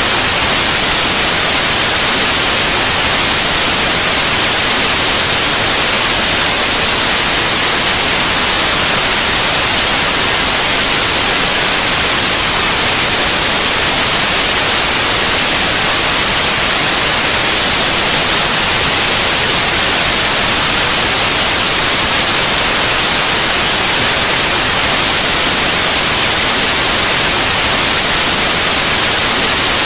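White noise played steadily for a baby's sleep: a loud, even hiss, strongest in the high range, with no change or break.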